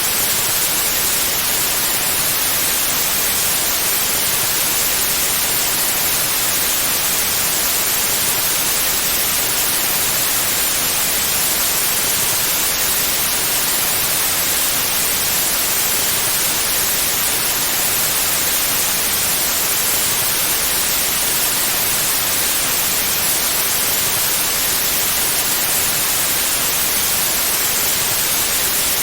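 Steady white noise: an even hiss that never changes, strongest in the high pitches.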